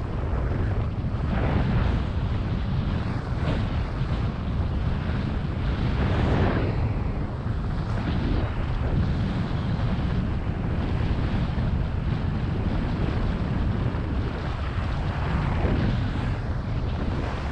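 Wind buffeting a GoPro's microphone at skiing speed, with the hiss of skis scraping across spring snow swelling every second or two as the skier turns.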